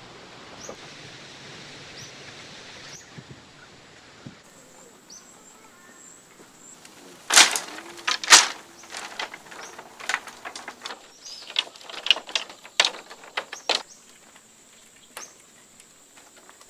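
Two loud sharp knocks about a second apart, then a run of lighter clicks and knocks, with faint short bird-like chirps in the first few seconds.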